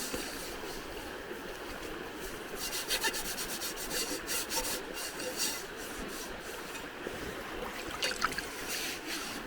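Irregular rasping scrape strokes, a run of short strokes starting about a third of the way in, over a steady background hiss.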